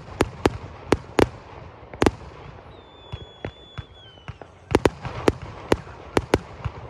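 Aerial fireworks shells bursting overhead: about a dozen sharp bangs, sparser in the middle and coming quickly together again near the end. A thin high whistle sounds for about a second and a half in the quieter middle stretch.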